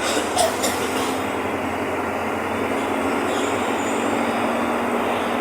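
Mercedes-Benz OF-1519 bus's four-cylinder diesel engine running steadily under way, with road noise and a faint steady hum. A few short rattles come in the first second.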